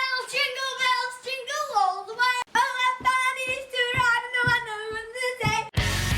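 A high voice singing unaccompanied: a run of short, wavering, held notes. Loud rock music cuts in near the end.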